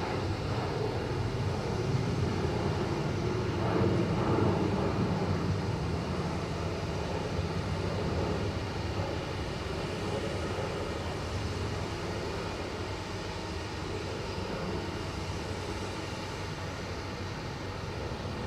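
Jet airliner engines rumbling steadily at the airport, swelling to a peak a few seconds in and then slowly easing off.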